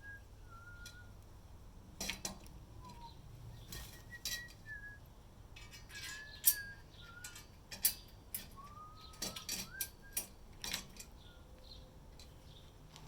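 A person whistling short, soft notes, some sliding in pitch, over a string of sharp clicks and clinks from handling furniture-assembly parts and hardware; the loudest click comes about six and a half seconds in.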